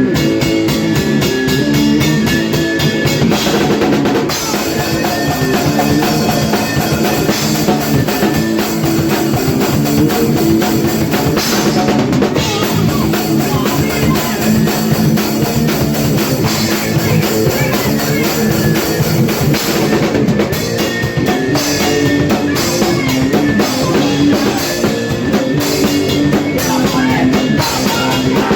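A hardcore punk band playing live: a fast drum kit with kick drum under electric guitar and bass riffs, loud and steady.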